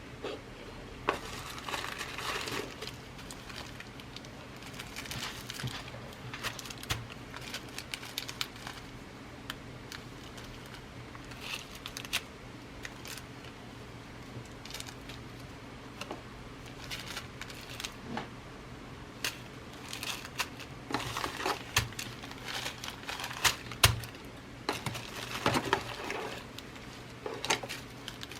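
Glass seed beads and their packaging being handled and rummaged through: crinkly rustling with small sharp clicks, coming in irregular bursts that grow busier and louder in the last third.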